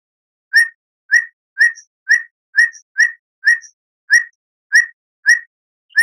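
Recorded bird call used as a lure track to set caged birds singing: a short whistled chip note repeated steadily about twice a second, around eleven times.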